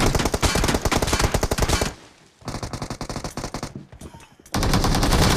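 Rapid automatic gunfire from a shooter video game, in three bursts: a long one that stops about two seconds in, a quieter, shorter one, then another loud burst near the end.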